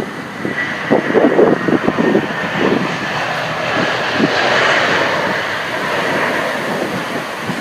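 Airbus A321 airliner on its landing approach, the jet engine noise swelling to a peak around the middle with a faint steady high whine. Gusts of wind buffet the microphone, mostly in the first couple of seconds.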